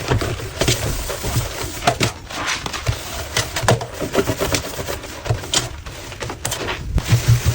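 A sink being scrubbed with washing powder, close up: quick, irregular scraping strokes with occasional soft knocks.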